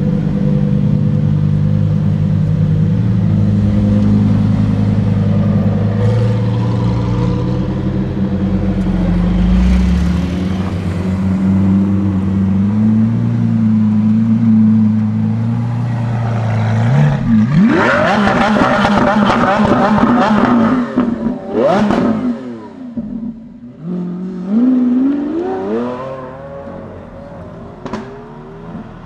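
Sports car engines running steadily at low revs. About 17 seconds in, one accelerates hard away with sharply rising revs, followed by another quick climb in revs a few seconds later, and the sound then fades as it drives off.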